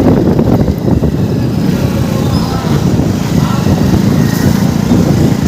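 Single-cylinder Hero Splendor motorcycle engine running with a steady, dense low rumble.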